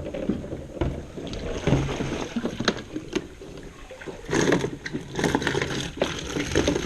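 Water sloshing and splashing in a container of live bluegill as a hand reaches in to grab one for bait, with a few sharp knocks scattered through and the heaviest splashing about four seconds in.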